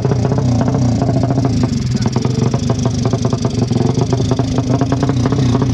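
Modified racing motorcycle engines running steadily near idle with a rough, rapid firing beat.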